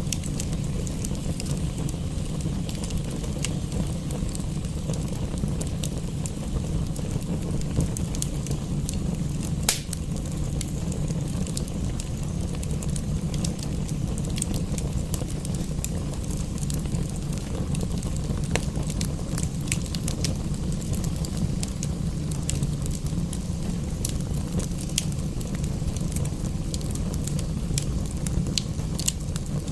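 Fireplace fire crackling, with frequent small sharp pops and one louder pop about ten seconds in, over a steady low rumble.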